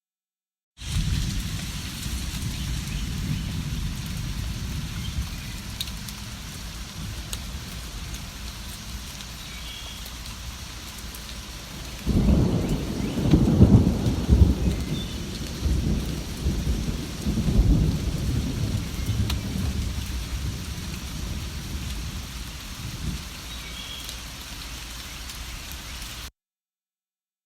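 Steady rain falling, with a long roll of thunder rumbling in about halfway through and fading out over several seconds. The recording drops to dead silence for about a second at the start and again near the end.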